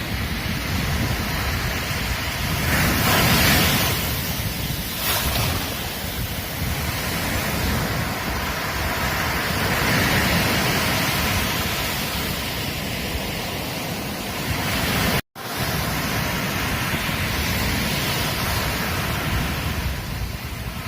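Ocean surf washing onto a beach, a continuous rush of waves with a louder surge about three seconds in. The sound cuts out completely for a split second about fifteen seconds in.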